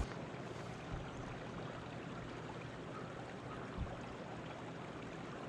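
Steady rush of flowing river water, with a couple of faint low bumps.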